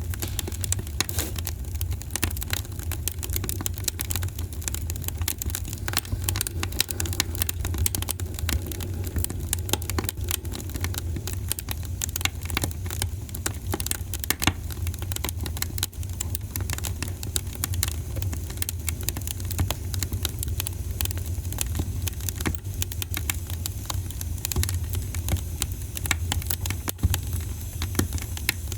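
Fireplace fire crackling: dense, irregular snaps and pops over a steady low rumble.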